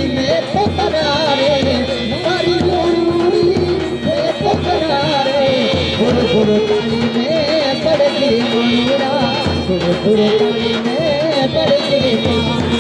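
Live Rajasthani folk music: an ornamented, wavering melody over a steady hand-drum beat.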